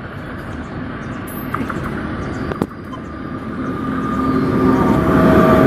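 WAP-7 electric locomotive hauling a passenger express as it approaches at speed. Its rumble grows steadily louder, and a steady whine joins about four seconds in. There is one sharp click near the middle.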